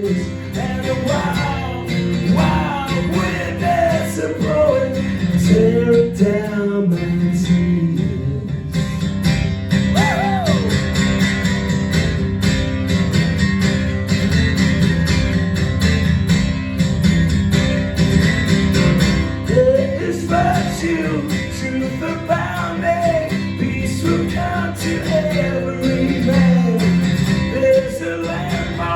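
Live acoustic rock music: a strummed acoustic guitar plays an instrumental break, with a melody line wandering over it.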